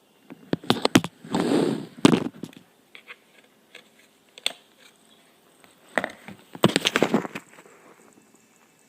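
Handling noises: two clusters of sharp clicks and knocks, with a brief rustle in the first cluster.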